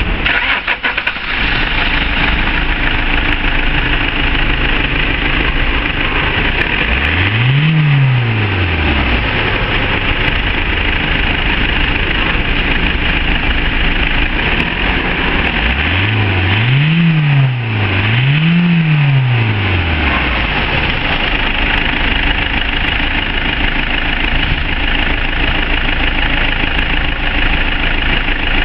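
Toyota 1CD-FTV 2.0 D-4D four-cylinder common-rail turbodiesel idling steadily. It is revved briefly once, then twice in quick succession, each rev rising and falling back to idle.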